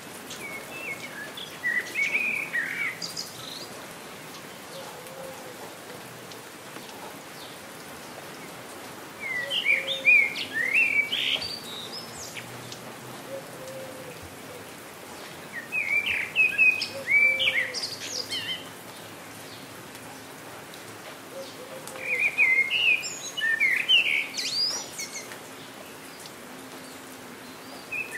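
A songbird singing short warbling phrases, each two to three seconds long, about every six or seven seconds, over the steady hiss of falling rain.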